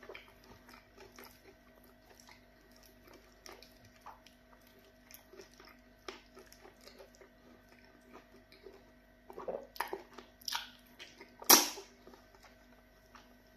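Close-up eating sounds of a man eating pounded yam fufu and okra soup by hand: soft chewing and wet mouth smacks throughout. Several louder smacks come near the end, the loudest about two seconds before it ends.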